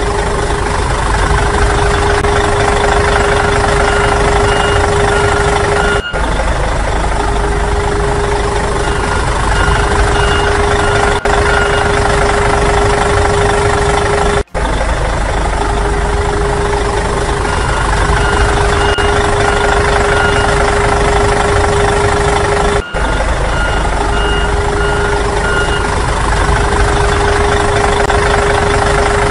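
Truck engine running steadily with a reversing alarm beeping in short runs: a looped sound effect that cuts out briefly about every eight seconds.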